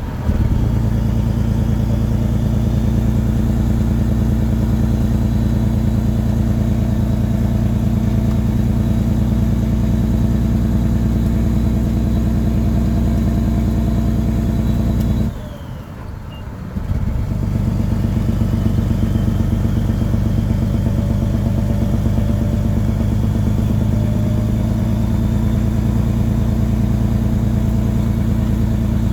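Caterpillar 6NZ straight-six diesel in a Peterbilt 389, running loud through 8-inch straight pipes with a steady pulsing drone. About halfway through it drops off for a second or two, then comes back up and pulls steadily again.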